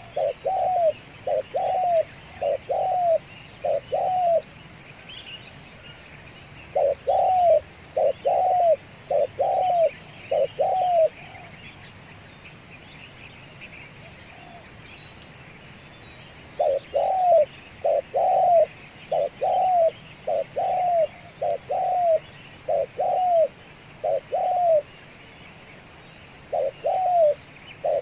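Spotted dove (tekukur) cooing: runs of short, arching coo notes repeated in series, with pauses of a few seconds between series. Behind it are a steady high-pitched hum and faint chirping of other birds.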